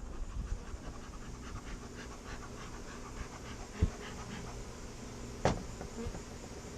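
Steady buzzing of a large mass of honeybees from a feral colony being removed, with two short knocks, one about four seconds in and a sharper one about five and a half seconds in.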